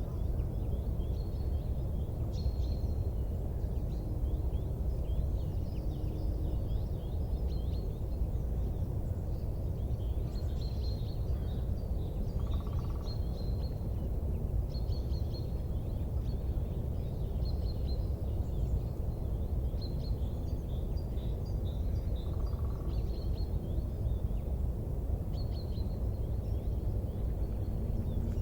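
Steady low rumbling background noise with many small birds chirping and calling over it throughout.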